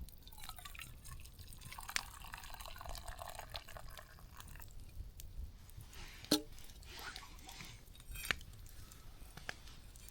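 Chaga tea being poured and dripping into a cup: a soft trickle a couple of seconds in, with a few light clicks.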